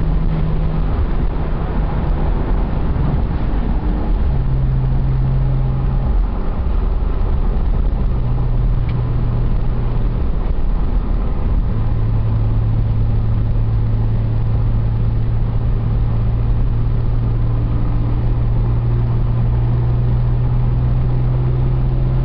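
Nissan 300ZX car engine and road noise heard from inside the cabin while cruising slowly: a steady low engine hum that steps to a lower pitch a few times, then holds one long even note.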